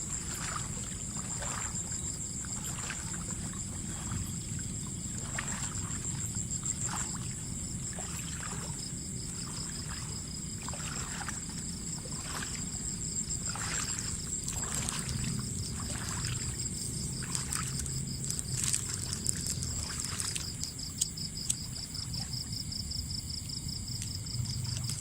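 Water splashing and sloshing in short irregular strokes about once a second, over a low rumble of moving water. Insects trill steadily at a high pitch throughout.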